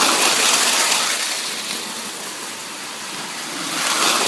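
Prewar Lionel Flying Yankee toy train running on FasTrack: a steady rushing rattle of its motor and wheels on the track. It is loudest near the start, eases off and swells again near the end as the train comes back round close by.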